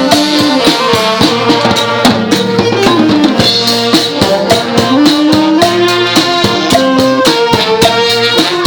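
Thai brass band (trae wong) playing a melody with a steady drum beat and rattling percussion.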